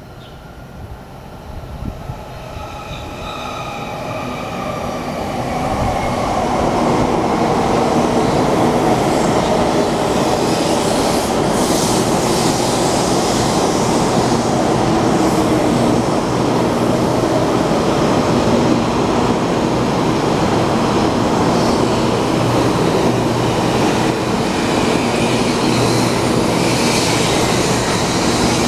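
Taiwan High Speed Rail 700T train pulling into a station. A whine of several tones drifts down in pitch as it approaches and slows. The sound of the train grows over the first six seconds or so, then holds as a steady, loud rush of wheels and air while the cars roll past.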